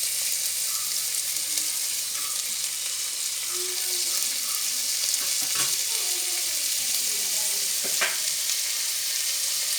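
Chopped onion and slit green chillies sizzling in hot coconut oil in a clay pot while being stirred, a steady hiss with a couple of sharp knocks about five and a half and eight seconds in.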